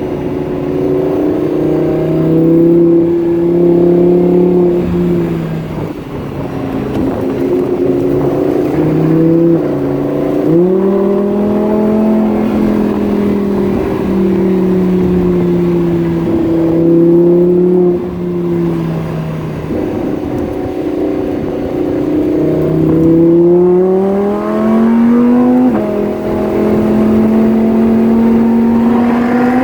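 Lamborghini Huracan's V10 engine at speed on a track lap, heard from the car. The engine note holds steady in stretches, then steps and glides up and down in pitch several times as it accelerates and lifts through the gears.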